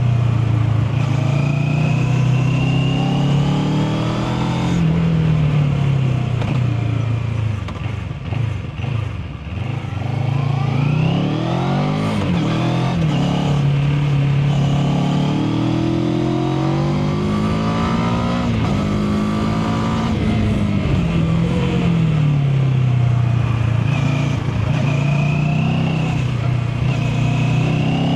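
Mash FR 750 motorcycle engine under way. Its note falls and drops off about a third of the way in, then climbs again in rising sweeps broken by gear changes. It falls once more about two-thirds through and builds again near the end.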